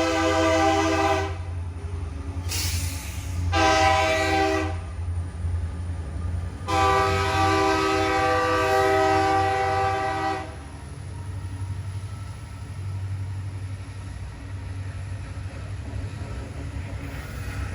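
Diesel locomotive air horn sounding: a long blast ending about a second in, a short blast near four seconds, then a long blast from about seven to ten seconds, the end of a grade-crossing signal. Beneath it the locomotive's steady low rumble as it passes.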